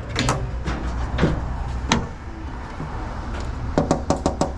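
A steady low engine hum with scattered sharp clicks and light knocks, and a quick run of clicks near the end, typical of scrap parts being handled.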